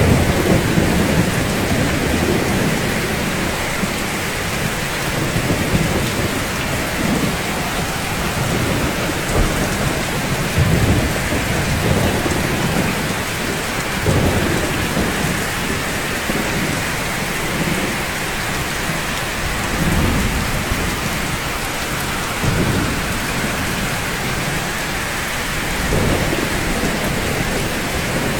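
Steady heavy rain, an even hiss, with low rolls of thunder swelling up every few seconds.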